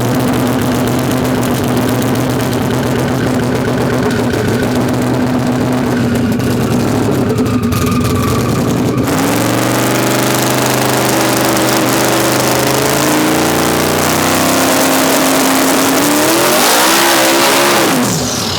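Drag-racing pickup truck engine: it runs steadily at first, then about nine seconds in it launches and pulls hard, the pitch climbing through the run before dropping sharply near the end as the throttle is lifted.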